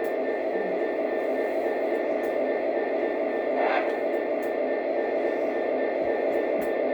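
Model train running along its track: a steady mechanical running noise of motor and wheels, with a faint high tone pulsing rapidly throughout.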